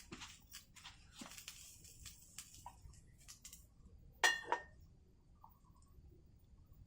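Cookware handled: a run of small clicks and taps, then about four seconds in a loud ringing clink of metal struck against a pot or dish, with a quick second strike.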